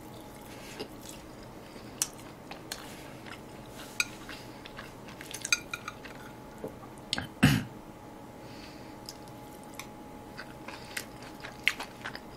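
Close-miked chewing of a mouthful of soft food, with scattered small clicks and taps of metal chopsticks and a spoon against a plate, and one louder low thump about seven and a half seconds in.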